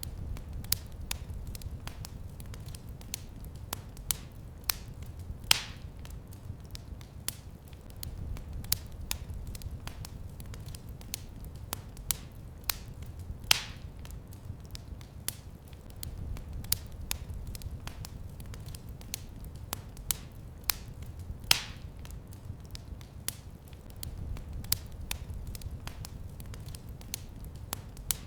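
Wood fire in a fireplace crackling with frequent small snaps and a few louder pops, over a low rumble that swells and fades every few seconds.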